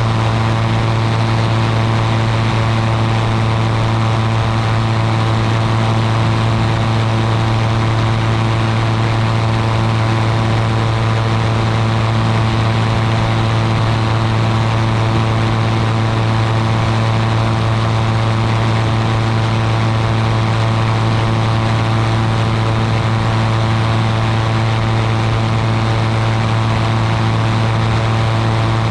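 Ultralight aircraft's propeller engine running steadily in flight: a constant low drone with a stack of higher tones over a hiss, holding the same pitch and loudness throughout.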